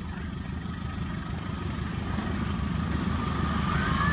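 A CC203 diesel-electric locomotive approaching at the head of a passenger train, its low engine and rail rumble growing steadily louder as it nears.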